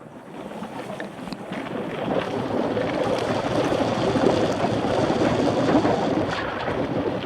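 Wind buffeting the microphone of a bike-mounted action camera while riding, a steady rushing noise that builds over the first couple of seconds.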